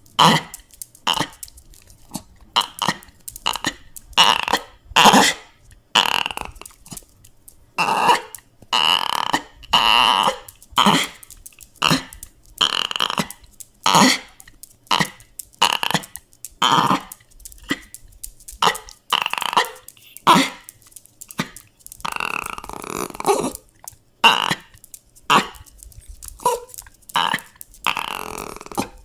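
Dog crying and whimpering in short, repeated cries, about one or two a second, with one longer drawn-out cry a little over two-thirds of the way through.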